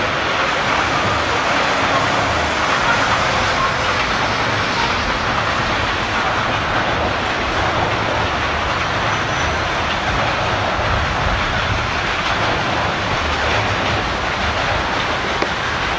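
Burlington Northern freight train's cars rolling across an overhead railway bridge: a steady rumble of wheels on rail, easing off slightly near the end as the last cars pass.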